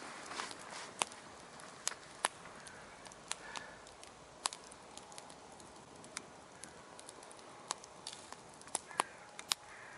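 Campfire of small twigs and branches crackling: sharp, irregular pops and snaps, one or two a second, over a faint steady hiss of burning.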